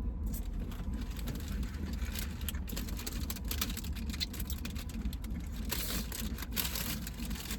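Steady low rumble of a car idling, heard inside the cabin, with faint scattered crackles and ticks of someone eating a cookie.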